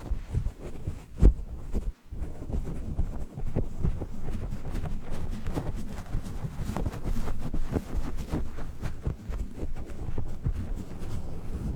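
Sleep-aid noise track of deep, continuous rumbling with irregular soft thumps. One louder thump comes about a second in, and there is a brief dip just before two seconds.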